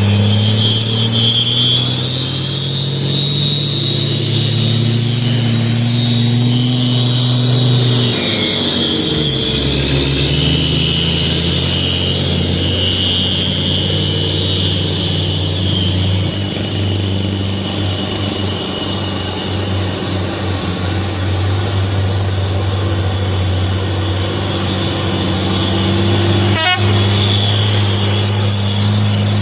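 Heavy container truck's diesel engine running under load on a climb, its note dropping and changing about eight seconds in, then holding steady.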